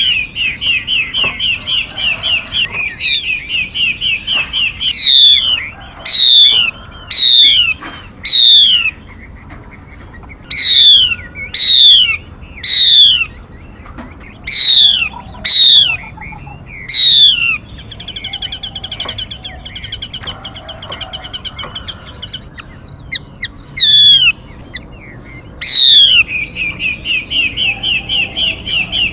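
Calls of a female mi songbird. Fast runs of short repeated chirps alternate with loud, sharply falling whistled notes, mostly about a second apart.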